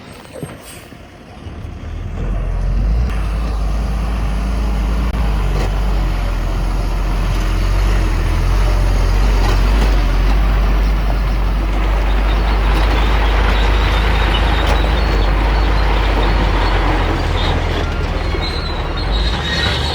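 Heavy diesel earthmoving machinery running steadily under load with a deep engine rumble, growing louder about two seconds in.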